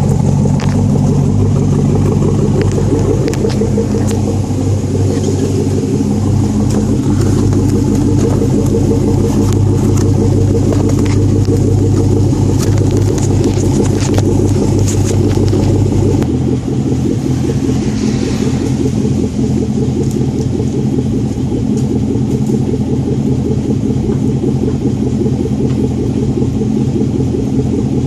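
Car engine running at a steady idle through a muffler-delete exhaust, a loud, deep rumble. About two-thirds of the way through, its deepest note drops and the tone shifts.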